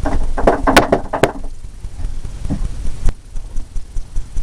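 A paintbrush is struck and shaken to knock excess odorless paint thinner out of its bristles. It gives a quick run of sharp knocks and rattles in the first second and a half, then one more sharp knock about three seconds in.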